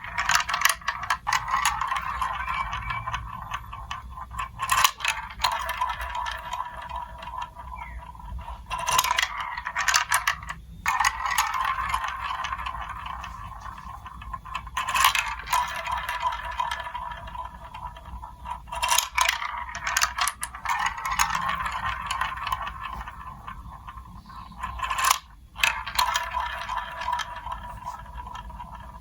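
Marbles rolling along plastic building-block marble run tracks: a continuous rolling rattle broken by frequent sharp clicks and clacks as they drop onto and strike the pieces.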